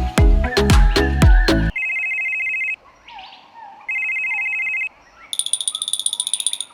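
Background music cuts off, then a telephone ringtone sounds twice, each ring a steady tone about a second long, followed by a faster, higher trilling ring near the end.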